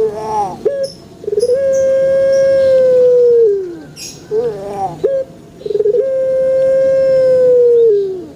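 Puter pelung, a long-calling domestic Barbary dove (Streptopelia risoria), cooing twice. Each call is a short broken opening note followed by a long, drawn-out coo of about two seconds that drops in pitch at the end.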